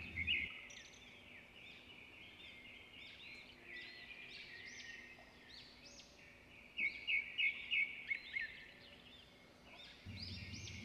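Small birds chirping repeatedly in the background, with a quick run of louder chirps about seven seconds in.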